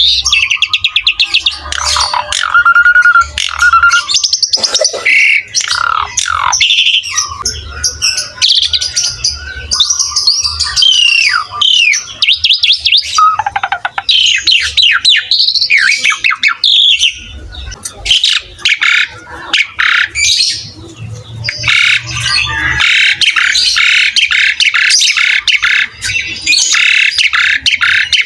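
Asian pied starling (jalak suren) singing in full song without pause: a varied run of clear whistles and sliding notes mixed with rapid, scratchy chattering trills. The chatter becomes dense and unbroken for the last several seconds.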